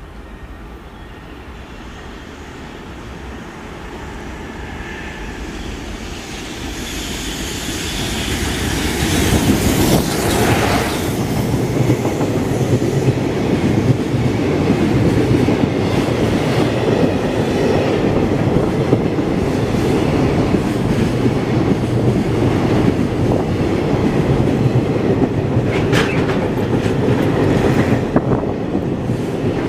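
Container freight train running through a station without stopping: its sound builds steadily over the first ten seconds as the train approaches and the locomotive goes by. Then come the loud, steady rumble and rattle of the container wagons' wheels running over the rails, with a couple of sharp clicks near the end.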